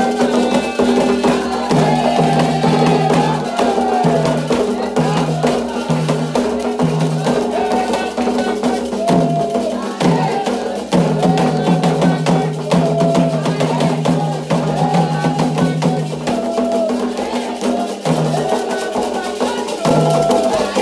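Candomblé toque for Ogum: atabaque hand drums and a metal agogô-type bell playing a steady, dense rhythm, with a rattle and voices singing over it.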